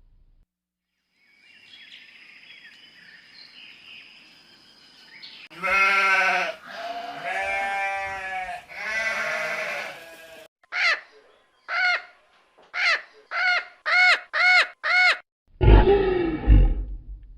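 Animal calls: three long, pitched, bleat-like calls, then a quick run of about eight short yelping calls, then a loud low roar near the end.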